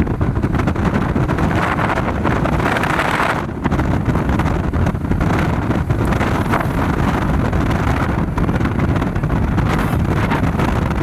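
Wind buffeting the microphone over a steady low rumble, with a brief dip about three and a half seconds in.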